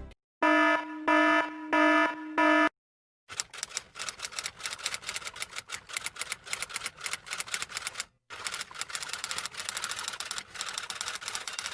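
Four short electronic beeps, like an alarm buzzer. Then rapid typing: a dense run of key clicks lasting about eight seconds, with a brief break about halfway through.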